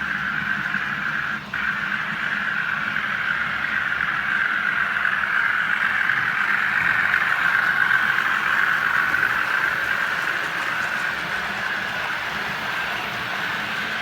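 OO gauge model train running along the track, a steady whirring hum of its motor and wheels that grows louder towards the middle and eases off again as it passes. The sound drops out briefly about a second and a half in.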